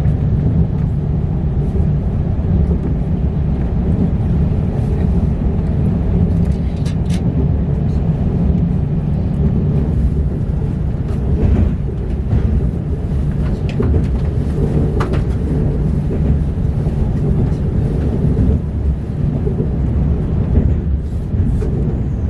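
Steady low rumble of a KTX high-speed train running, heard inside the passenger car, with a few faint clicks.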